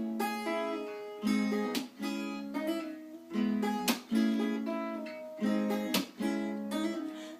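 Acoustic guitar strumming chords in a slow repeating pattern, with a sharp strum about every two seconds and the chords left to ring between, as the song's instrumental intro.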